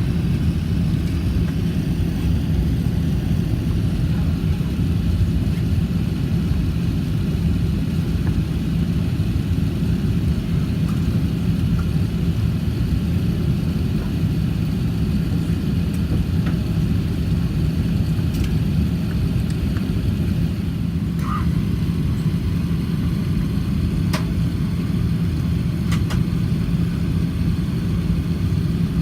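Steady low mechanical rumble with a constant low hum, unchanged in level, and a few faint clicks about three-quarters of the way through.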